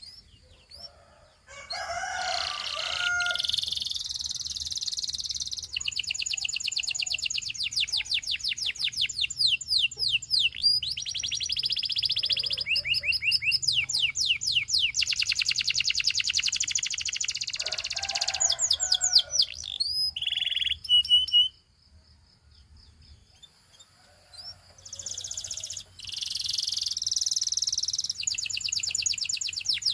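Canary singing in fast trills and runs of quickly repeated notes. The song breaks off for a couple of seconds about two-thirds of the way through, then starts again.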